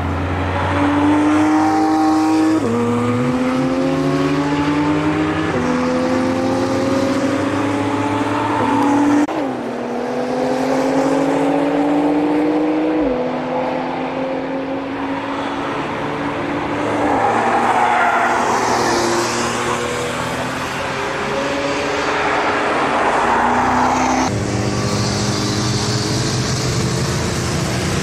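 Cars accelerating hard past a race track, each engine note climbing and dropping back at every upshift, several shifts in a row. A little over halfway through, a vehicle rushes past with a swell of noise.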